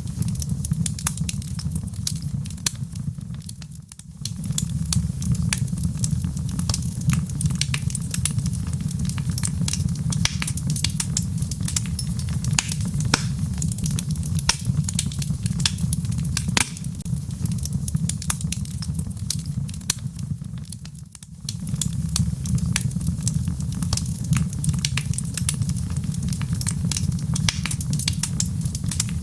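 Wood logs burning in a fireplace: a steady low rumble of the flames with frequent sharp crackles and pops. The rumble briefly fades out twice, about four seconds in and again about twenty-one seconds in.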